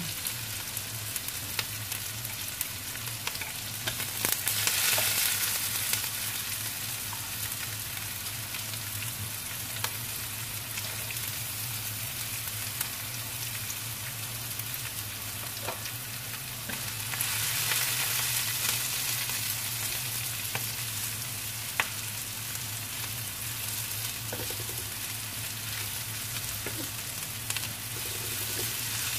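Shallots, garlic and chilies sizzling in hot oil in a wok alongside cubes of tempeh, with a spatula scraping and tapping the pan now and then. The sizzle swells louder twice, about four seconds in and again around seventeen seconds, over a low steady hum.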